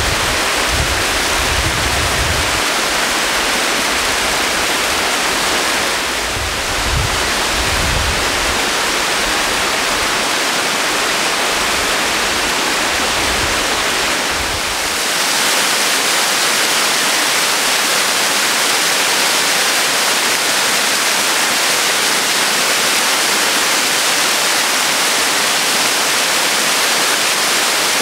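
Waterfall rushing steadily. Wind buffets the microphone with low rumbles through the first half, and about halfway through the sound grows brighter and steadier.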